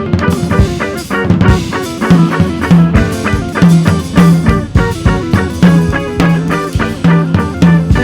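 Instrumental music: a drum kit keeping a busy, steady beat under repeating twelve-string guitar notes.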